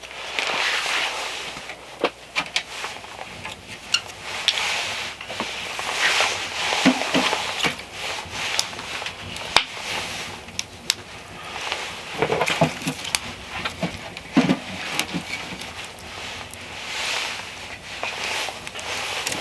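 Snow shovel digging and scraping through snow: irregular strokes every second or two, each a gritty swish, with a few dull thumps as loads are dumped.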